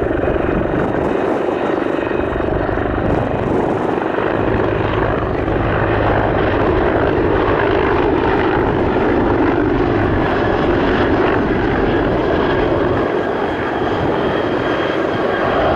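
Sikorsky CH-53K King Stallion heavy-lift helicopter running: loud, steady rotor and engine noise.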